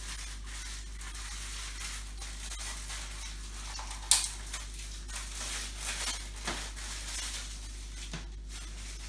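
Rustling and handling noises of bags being taken out and unfolded, with a sharp click about four seconds in and a few quieter swishes later, over a steady low hum.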